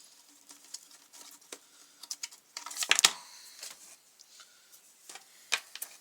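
Scattered clicks and knocks of plastic trimmer parts and hand tools being handled as a grass trimmer's fuel tank is taken off, with a louder scraping clatter about three seconds in and a sharp click near the end.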